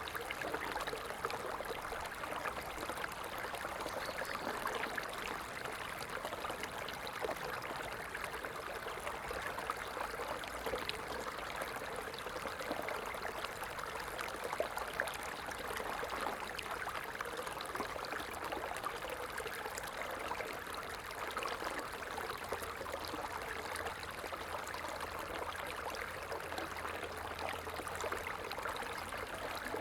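Stream water flowing and trickling steadily over stones, a continuous babbling rush full of small splashes.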